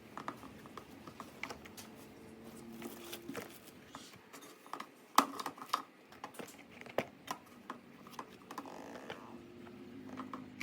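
Irregular light clicks and taps of food preparation and utensils being handled, with one sharper knock about five seconds in.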